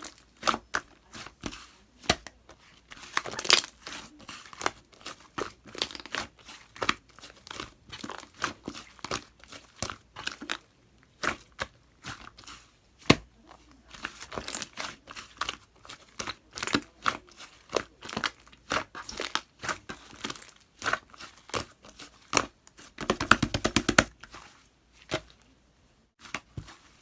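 White slime being mixed with pink clay by hand, squished and pressed so that it gives off irregular sticky pops, clicks and crackles, with a quick run of clicks about three quarters of the way through.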